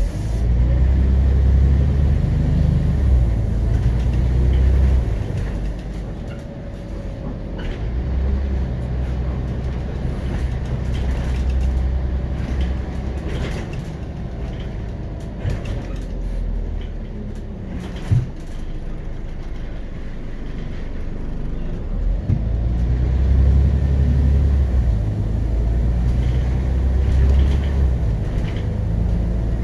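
Scania CN94UB Omnicity city bus's DC9.01 diesel engine heard from on board while driving, its low note swelling as the bus pulls away and easing off between, in three long pushes. A single sharp knock sounds about two-thirds of the way through.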